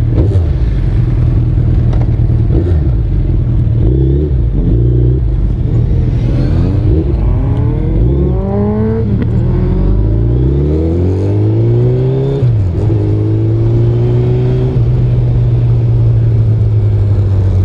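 Superbike engine accelerating through the gears: its pitch climbs and drops back at each shift several times, then holds steady at cruising speed for the last few seconds.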